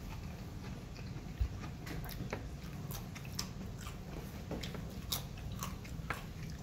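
A person chewing and biting into crunchy plantain chips, a scatter of small sharp crunches and mouth clicks.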